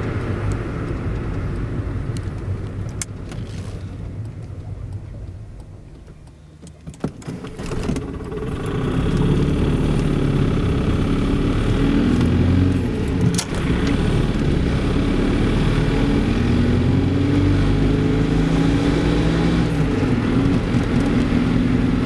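Inside the cabin of the VW Öko-Polo: with the engine shut off by its automatic coasting system, the car rolls on and the road and tyre noise fades. About seven seconds in, the G-Lader-supercharged 858 cc two-cylinder direct-injection diesel starts again. It then runs steadily and louder as the car drives on.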